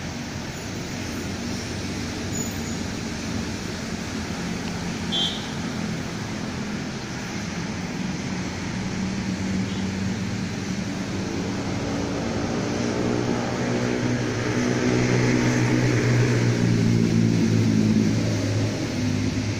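A distant train approaching along the track: a steady rumble that grows louder, with an engine drone coming in about halfway and rising as it nears. A brief high chirp sounds about five seconds in.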